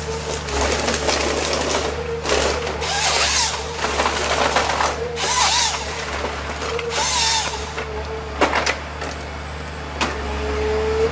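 A wood-cutting machine running steadily, with three short loud bursts of its saw cutting through wood and a sharp knock near the end.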